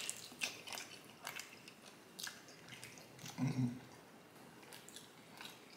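Close-miked chewing and biting of a person eating smoked sausage and potato: soft, irregular clicking mouth sounds, with a brief low hum from the eater about three and a half seconds in.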